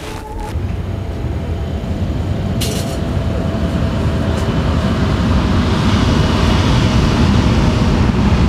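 A passing train's low rumble, growing steadily louder as it comes closer.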